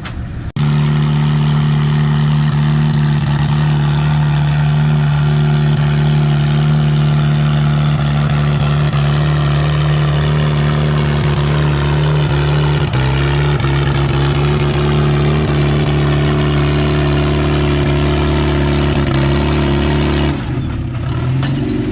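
Vintage farm tractor engine running steadily under load while pulling a weight sled, its pitch nearly constant. It cuts in abruptly about half a second in, steps down slightly in pitch about halfway through, and falls away about two seconds before the end.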